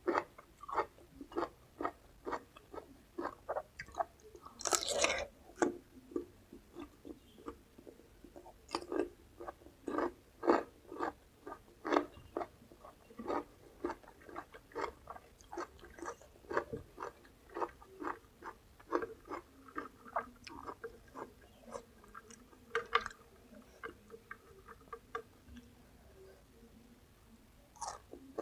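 Close-miked chewing of crisp raw vegetables, about two to three crunchy chews a second, with a louder crisp bite about five seconds in; the chewing grows sparser and quieter near the end.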